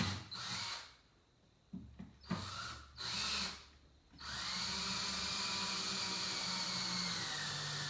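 Power drill driving a screw at an angle into plywood: a few short trigger bursts, then a steady run of the motor from about four seconds in.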